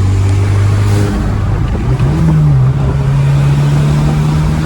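Car engine heard from inside the cabin, pulling under acceleration. The engine note changes near two seconds in, typical of a gear change, then climbs steadily.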